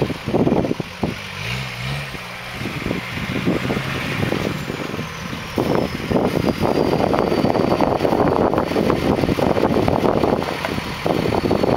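Off-road 4x4 engine running, its pitch rising and falling for a couple of seconds about a second in, with gusty wind buffeting the microphone through the rest.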